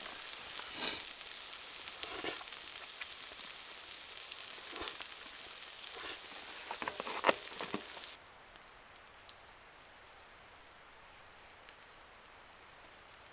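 Meat sizzling as it cooks, a dense hiss with scattered small pops and crackles. About eight seconds in it cuts off abruptly to a much quieter background with a few faint ticks.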